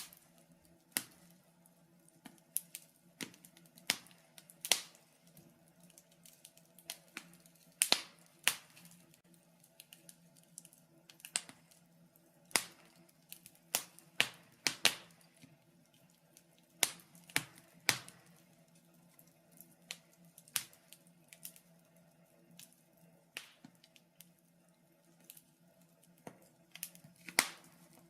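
Wood fire in a fireplace crackling: irregular sharp pops and snaps, some single and some in quick clusters, over a faint steady low hum.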